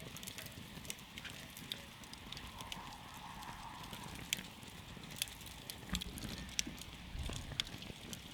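Wood campfire burning: a steady low rumble of flames with scattered sharp crackles and pops, which come more often and louder in the second half.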